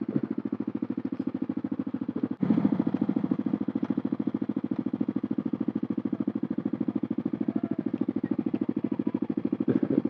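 Small 50cc motorcycle engine idling with a fast, even putter, a little louder from about two and a half seconds in.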